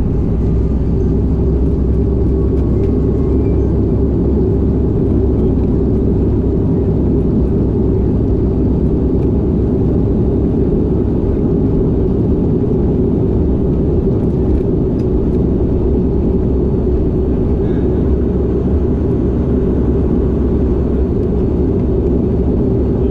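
Cabin noise of a Bombardier Dash 8 Q400's two turboprop engines and propellers, a loud, steady drone.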